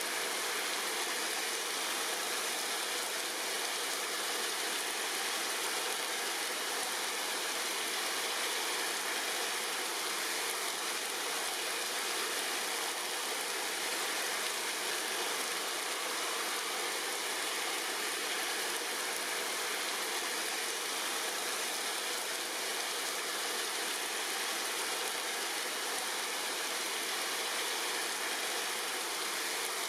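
Steady rain falling on tree leaves: an even, unbroken hiss with no single drops standing out.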